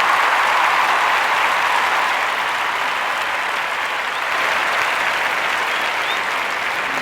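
Large concert audience applauding steadily, easing off slightly toward the end.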